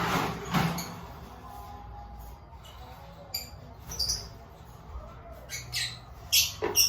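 Lovebirds giving short, sharp chirps and squawks, several in the second half. There are a couple of duller knocks near the start.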